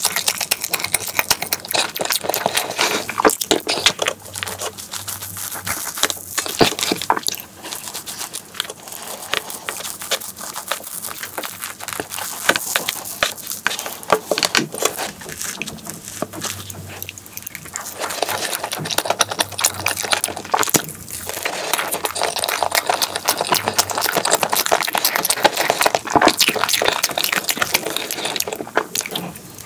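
Close-miked eating sounds: wet chewing and lip smacks on soft, cream-layered chocolate crepe cake, with clicks and scrapes of a plastic knife and a fork on a plastic tray.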